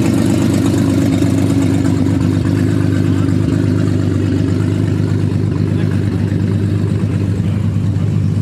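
Drag-race car engines idling in the staging lanes: a loud, steady low drone that holds one pitch throughout.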